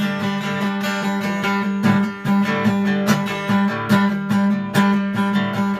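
Acoustic guitar strummed in a steady rhythm: an instrumental break between sung lines of a song.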